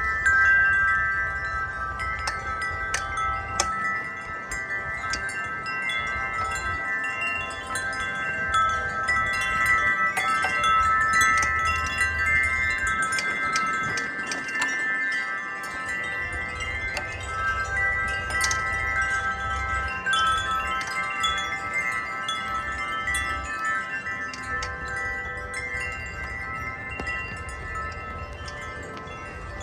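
Several tuned tubular wind chimes ringing together in a gust of wind, their tubes struck again and again so that many long overlapping tones keep sounding. Wind rumbles low on the microphone underneath.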